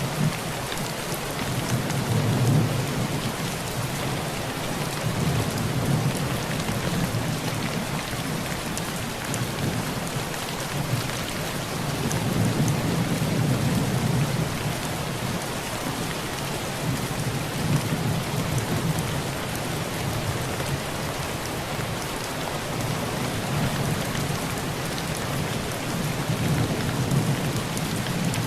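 Heavy rain falling steadily on a tin roof, with low rolls of thunder that swell and fade about five times.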